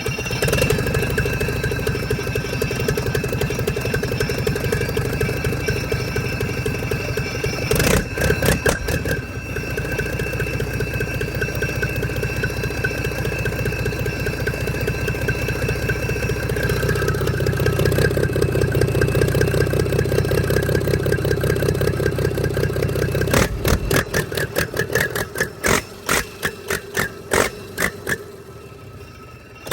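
An engine running steadily, with a cluster of sharp knocks about eight seconds in. Near the end the engine's low rumble stops and a string of sharp knocks follows, about one or two a second.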